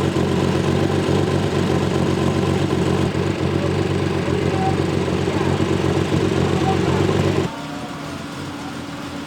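Rally car engine running loud and rough at steady revs, its pitch holding level. About seven and a half seconds in it cuts abruptly to a quieter, steady engine drone.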